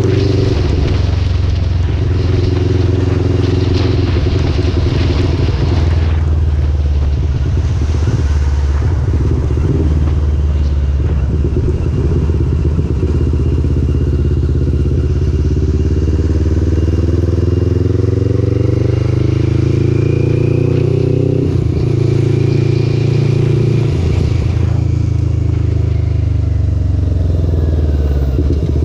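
Motorcycle engine running under way, with steady noise behind it. Its pitch climbs steadily as it accelerates, drops suddenly at a gear change about two-thirds of the way through, then falls away near the end as it slows.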